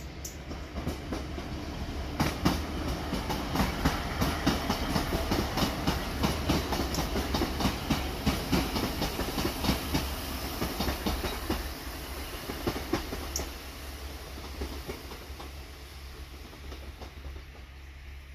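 Diesel multiple-unit passenger train passing, its wheels clicking in a quick rhythm over the rail joints; it grows louder as it comes by and fades away over the last few seconds.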